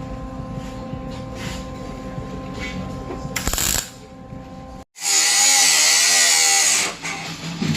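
A steady hum with a few even tones, a short loud burst at about three and a half seconds, then after an abrupt cut a power tool running loud and high-pitched for about two seconds.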